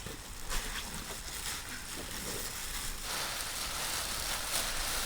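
Rain falling, a steady patter of drops that grows heavier about three seconds in.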